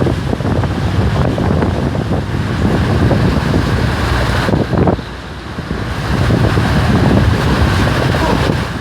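Storm wind and heavy rain, with gusts buffeting the microphone; the wind eases for about a second around five seconds in, then picks up again.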